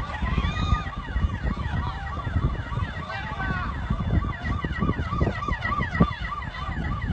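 Several emergency sirens yelping at once, fast repeating rises and falls in pitch, over a constant low rumble.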